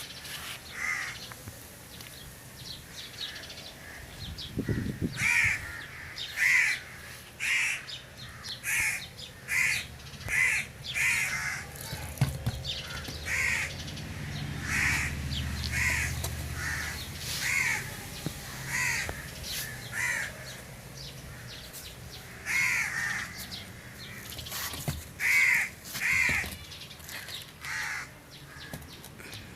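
Crows cawing over and over, a harsh call about once a second with a few short pauses. A low rumble swells and fades about halfway through.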